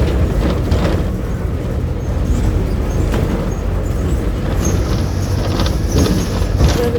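Volkswagen 17.230 OD city bus engine running steadily under way, heard from inside the cabin as a low drone, with short rattles and clicks from the bus body.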